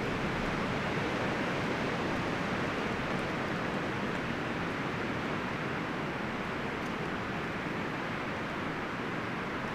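Wind blowing steadily through forest trees, leaves and branches rustling in an even rush.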